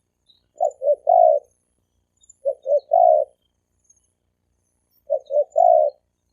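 Male spotted dove cooing: three phrases about two and a half seconds apart, each two short coos followed by a longer drawn-out coo. Faint high chirps from small birds sound between the phrases.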